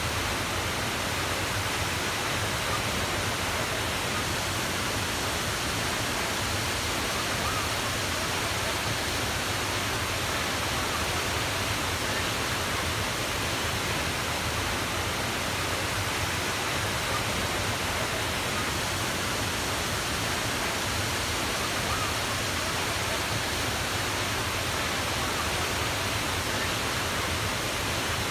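Steady, unbroken rushing water noise, even across low and high pitches, with no changes or separate events.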